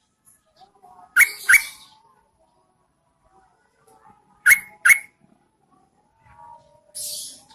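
Yellow-vented bulbul calling: two pairs of sharp, loud double notes about three seconds apart, then a short harsh rasp near the end. These are calls said to be a female's, used as a lure to draw males to answer.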